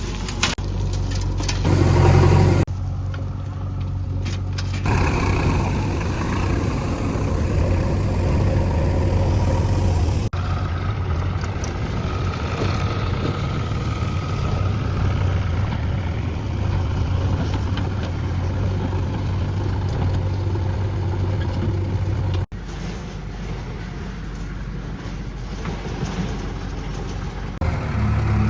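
Heavy diesel engine running steadily with a low drone, its sound jumping abruptly at several cuts.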